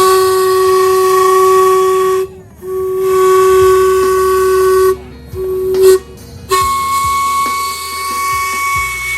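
Train whistle blowing loudly: two long blasts, a short third one, then a steadier, higher tone.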